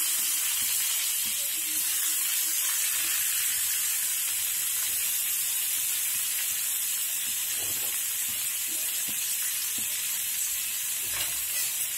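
Onions, mustard seeds and freshly added tomato pieces frying in hot coconut oil in an aluminium kadai: a steady sizzle.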